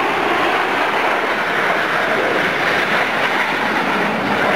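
Steady, loud jet noise from the Aermacchi MB-339 jet trainers' turbojet engines as the formation flies past at high speed.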